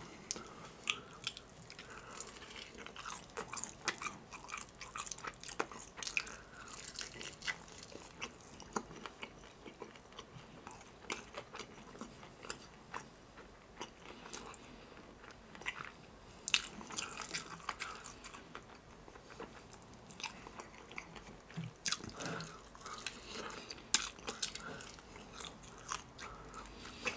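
A person chewing and biting into crispy KFC fried chicken close to a microphone, with many short, sharp crunches of the breading at irregular intervals.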